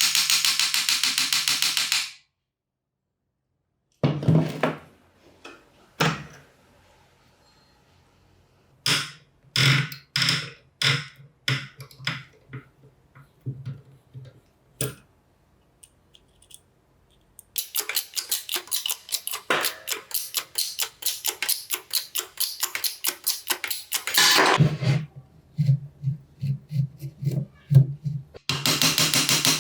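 Workshop tool sounds across several edits. A run of separate sharp knocks, like hammer or mallet strikes on metal parts, sits between stretches of a rapid, evenly pulsing power tool, and a row of regular low knocks comes near the end.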